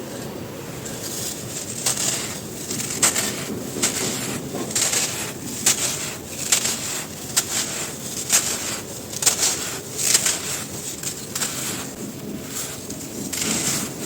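Dry, crispy cylinders of dusty crumbly material being crumbled, with sharp crunches and snaps every second or so over a soft, steady crumbling rustle.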